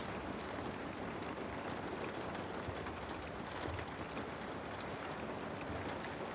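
Steady rain ambience: an even hiss of rainfall with scattered small drop ticks.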